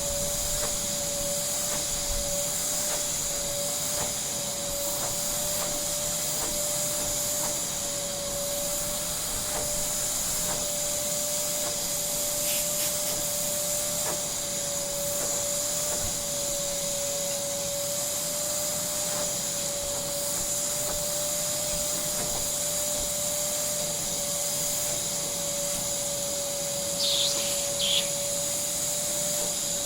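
AmazonBasics 1400 W wet and dry vacuum cleaner running steadily: a constant motor whine over a hiss of rushing air. Two brief higher squeaks come near the end.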